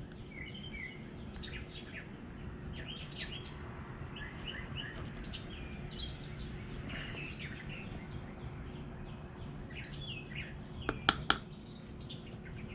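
Small birds chirping intermittently over a steady low background hum, with a few sharp clicks about eleven seconds in.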